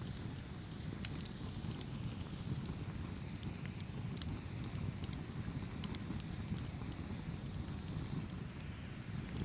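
Campfire burning: a steady low rumble of flame with frequent small, sharp crackles and pops, scattered at irregular moments.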